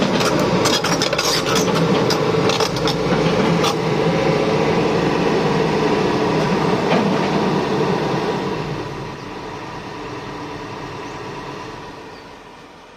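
Heavy excavator diesel engine running with sharp metallic clanks in the first few seconds. It fades down in two steps, about eight seconds in and again near the end.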